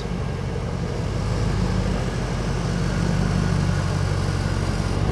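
Mercedes-Benz C63 AMG Black Series' 6.2-litre V8 burbling at low revs as the car is driven slowly. The engine note swells slightly about halfway through.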